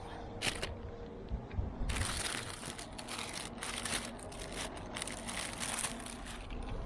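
Crinkling and rustling of something being handled, from about two seconds in until shortly before the end, after a single click near the start.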